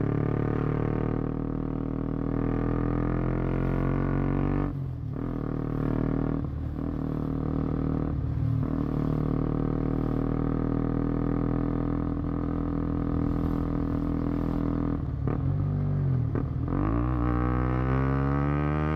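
KTM Duke 125's single-cylinder four-stroke exhaust note under way at a steady pace, breaking off briefly a few times. Near the end it revs up steeply as the bike accelerates hard.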